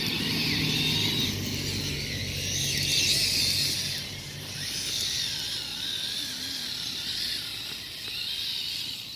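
Electric motor and geartrain of an RC scale crawler truck whining as it crawls, the high whine wavering in pitch with the throttle.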